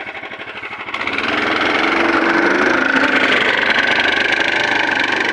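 Engine of a 9 hp motorized snow tow running, picking up revs about a second in and then holding them steady under load as the machine pulls off.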